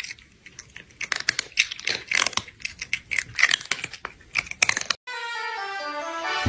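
Crunchy chewing and munching, made of many quick irregular crunches. About five seconds in it gives way to a bright melodic music cue.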